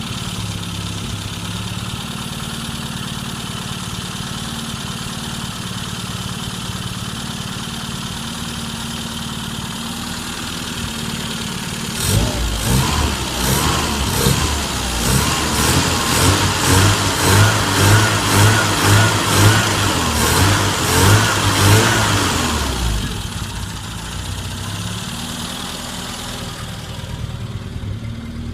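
A 1995 Rover Mini SPi's 1275cc A-series four-cylinder engine idling steadily. About twelve seconds in it is revved in a quick series of blips, roughly one a second, for about ten seconds. It then drops back to idle.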